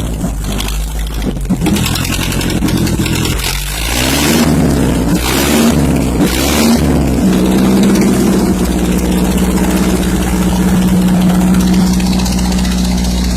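Ford 860 tractor engine revving up and down unevenly, then held at a steady, higher speed from about seven seconds in. Loud.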